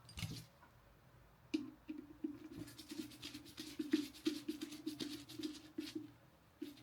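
Electric kettle's switch and casing parts being handled and fitted back together by hand: a knock at the start, then a busy run of light clicks and scrapes.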